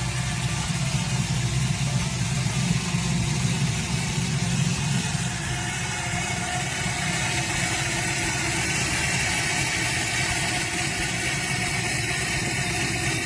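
1972 Ford Maverick's 302 cubic inch V8 crate engine, fitted with headers and a 3-inch exhaust, idling steadily through the exhaust.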